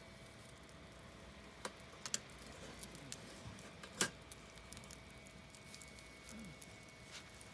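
Campfire crackling: scattered sharp pops and snaps from the burning wood, the loudest about four seconds in.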